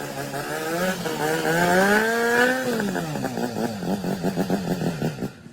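Restored BMW motorcycle engine revving: the pitch climbs and falls back, then the engine runs with an uneven pulsing beat. It cuts off suddenly near the end.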